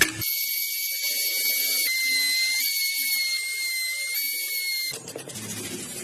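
A small high-speed motor tool whining steadily with a hiss, its pitch wavering slightly, cutting off about five seconds in.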